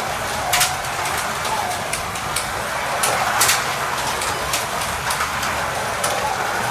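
Carrera Digital slot cars running around a plastic track: the small electric motors whine steadily, rising and falling a little, with a few sharp clicks now and then.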